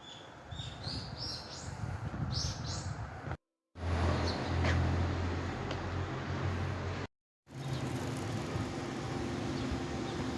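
Small birds chirping in short rising notes over a low rumble for about three seconds. After a sudden cut comes a steady low hum, then after another cut a second steady hum with a faint tone in it.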